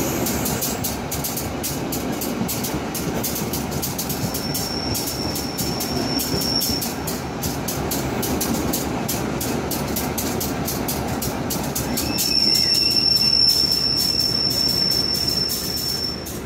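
Local passenger train running on the rails: a steady rumble with constant rattling clicks from the wheels and track. A high, steady wheel squeal comes in twice, briefly a few seconds in and longer near the end, when the running noise also grows louder.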